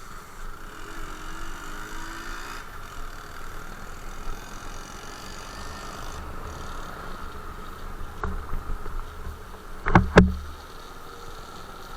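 Motorcycle running steadily while being ridden, with two loud sharp knocks about ten seconds in and a fainter one shortly before.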